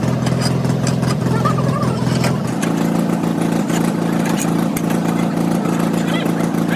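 A motor vehicle engine idling steadily. Its note shifts about two and a half seconds in, with faint clicks and taps over it.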